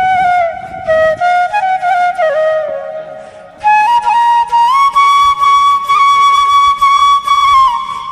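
Background music: a solo flute playing a melody. It fades briefly about three seconds in, then comes back higher and holds a long note.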